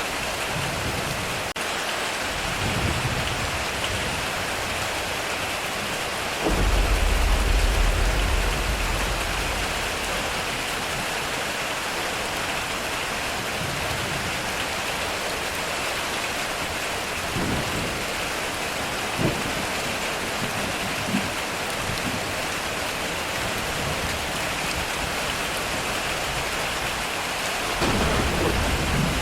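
Heavy rain drumming steadily on a metal roof, with thunder rumbling. A faint roll comes about three seconds in, a loud deep rumble of a few seconds about six seconds in, and another rumble near the end.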